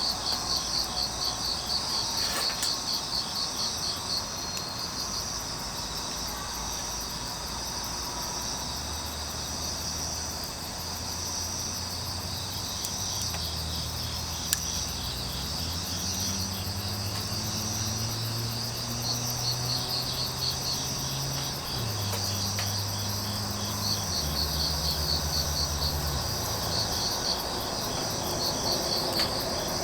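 Several crickets chirping in fast, steady pulsed trills, with one sharp pop from the wood fire about halfway through. A low hum that shifts pitch in steps runs under the chirping through the middle of the stretch.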